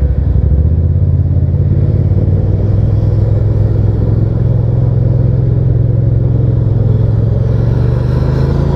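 Hyosung GT650's V-twin engine running steadily while the motorcycle is ridden, a low, even engine drone.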